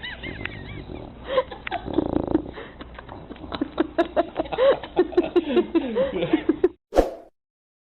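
A dog whining and grumbling in a run of short, rising-and-falling vocal sounds that come faster in the second half, then cut off near the end.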